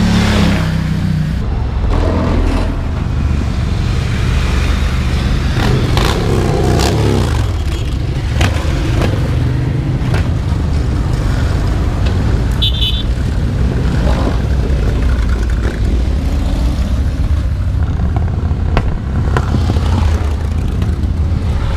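Motorcycle engines running, a steady loud low rumble with pitch sweeping down around a third of the way in, and a short high beep about halfway through.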